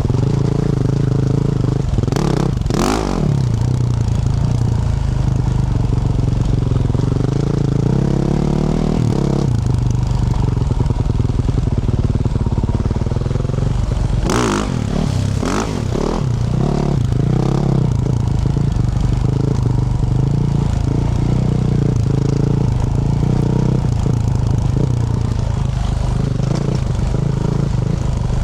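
Yamaha YZ450F single-cylinder four-stroke dirt bike engine running through a Yoshimura RS-12 exhaust while riding, its pitch rising and falling with the throttle. There are two short rushing bursts, one about three seconds in and one about halfway through.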